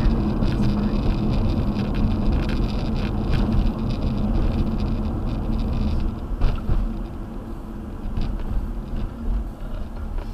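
Car in motion heard from inside the cabin: steady road and engine rumble, a little quieter over the last few seconds.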